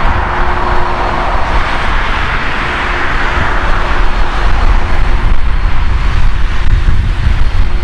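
Airbus A330's twin turbofan jet engines at takeoff thrust: a loud, steady rushing noise over a deep rumble that grows stronger toward the end.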